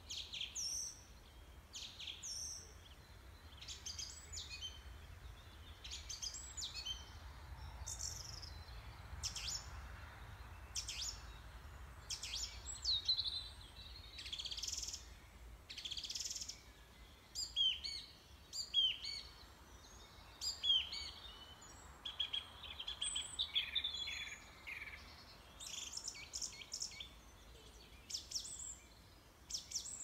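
Small birds chirping and singing: many short, high chirps and quick rising and falling whistles, over a faint low hum.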